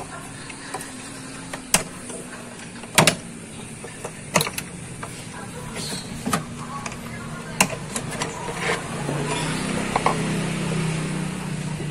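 Scattered sharp metallic clicks and knocks of hand tools and parts as the air filter housing is unbolted in a car's engine bay. A low steady hum runs underneath and grows louder near the end.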